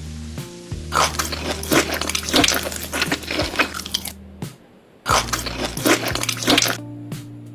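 Close-miked crunchy chewing of food in two bouts, a dense run of crackling crunches, then a brief break and a shorter run, over soft background music.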